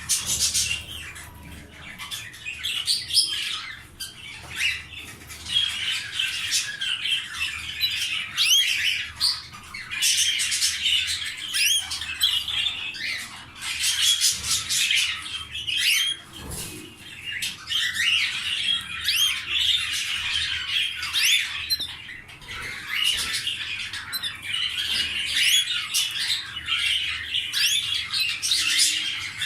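Domestic canaries singing and calling: a long, near-continuous run of rapid trills, chirps and quick warbling sweeps with brief lulls. There is one low knock about halfway through.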